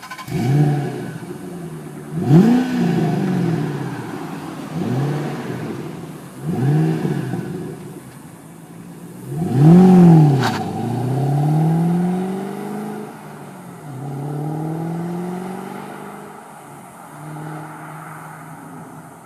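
2008 Shelby GT500's supercharged 5.4-litre V8, breathing through Flowmaster Outlaw mufflers, revved in neutral: a run of quick throttle blips, the biggest about ten seconds in, then slower, longer revs that rise and fall.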